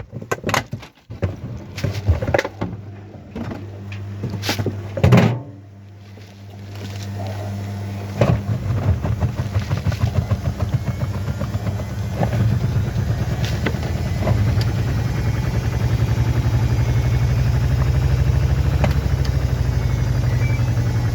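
A few clicks and knocks, with one loud knock about five seconds in. Then a washing machine's motor starts up and runs with a steady low hum and a fast flutter from the turning drum, growing louder about two-thirds of the way through.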